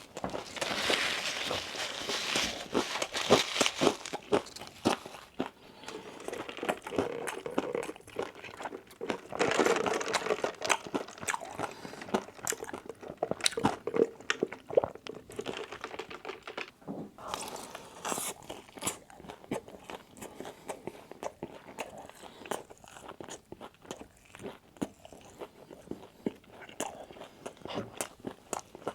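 Close-up chewing and crunching of crispy fried food from Wingstop, a person biting and chewing with many small crackling clicks. Denser, louder crunching comes in spells, about a second in, around ten seconds and again near eighteen seconds.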